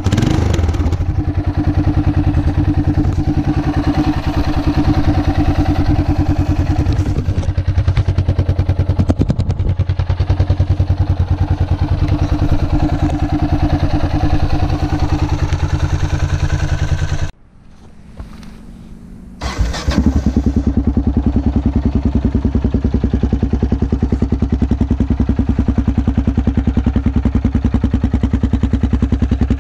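Yamaha XT660R single-cylinder four-stroke engine idling through its rebuilt stock exhaust mufflers, with an even pulsing beat. About 17 seconds in the engine cuts out abruptly; about two seconds later it is restarted and settles back to a steady idle.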